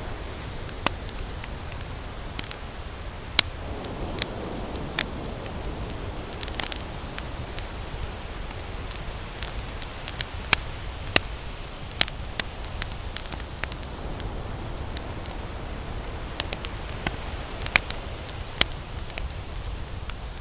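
Campfire crackling, with irregular sharp pops and snaps from the burning wood over a steady low rumbling hiss.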